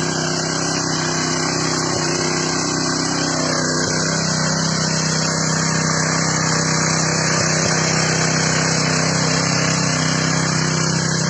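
Mini power tiller's 6 hp four-stroke petrol engine running steadily at an even speed.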